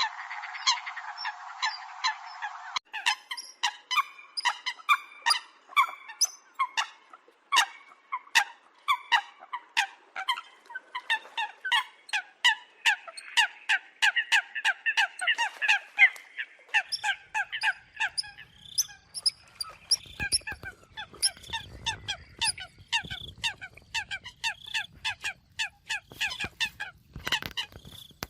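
Eurasian coots calling: short, sharp calls repeated in quick succession, several birds overlapping. A faint low rumble runs under the calls in the second half.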